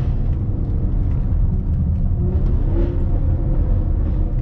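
Range Rover L322's 5.0-litre supercharged AJ133 V8 running under way with its exhaust valves open, a deep, steady rumble.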